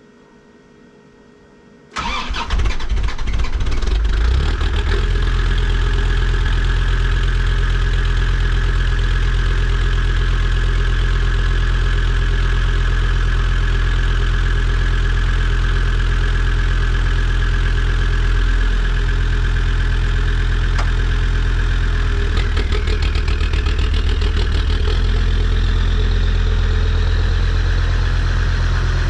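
Land Rover Defender TD5's five-cylinder turbodiesel cold-starting in deep frost at about −15 °C: it fires about two seconds in, catches within a few seconds and settles into a steady idle. A faint rising whine joins the idle later on.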